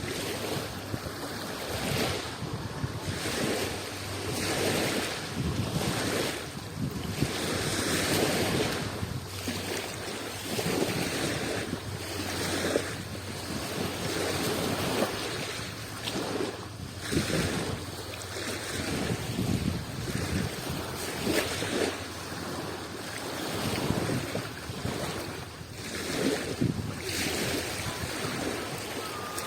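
Adriatic Sea waves washing in one after another, a swell of surf every second or two.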